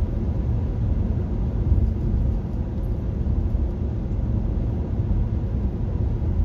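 Steady low rumble of tyre and road noise from a 2021 Nissan Leaf electric car driving along, with no engine sound beneath it.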